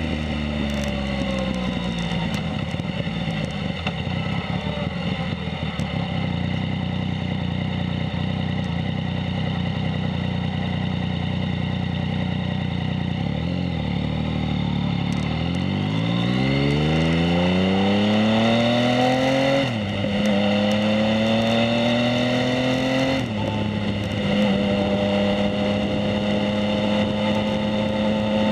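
Yamaha MT-09 three-cylinder engine through a Two Brothers S1R full aftermarket exhaust. It winds down at the start, then runs low and steady for several seconds. It then pulls away hard with rising revs, with two quick upshifts where the pitch drops about three and a half seconds apart, and settles into a steady cruise.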